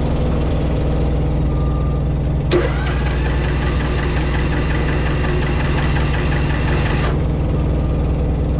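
Engine idling steadily throughout. About two and a half seconds in, a second, higher machine sound comes in with a short rising whine, runs steadily for a few seconds and cuts off suddenly.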